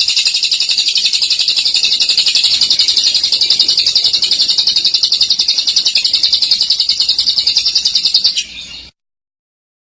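Lovebird's long 'ngekek' song: a loud, rapid, high-pitched chattering trill held without a break, cutting off about eight and a half seconds in.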